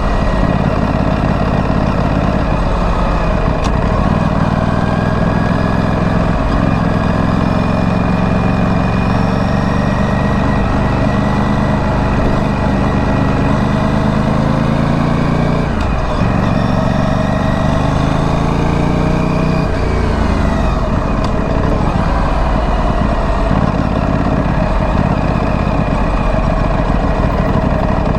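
Stock exhaust of a 2025 Aprilia Tuono 457's parallel-twin engine under way. The revs climb slowly, drop at a gear change about 16 s in, climb quickly again, then fall away near 20 s and run unevenly after that.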